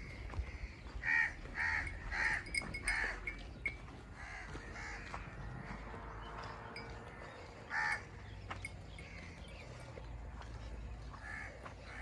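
A bird calling: four quick calls about a second in, then single calls near eight and eleven seconds.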